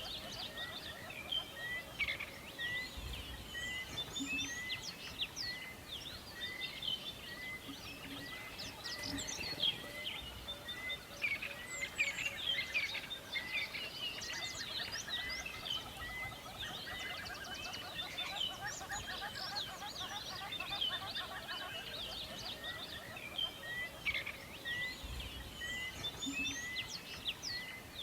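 Forest bird chorus: many birds chirping and trilling at once, one of them repeating a short note steadily over and over.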